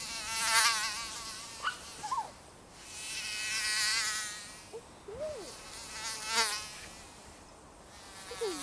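Mosquito whining in flight, its thin buzz swelling and fading three times as it passes close by and away again, with a slightly wavering pitch.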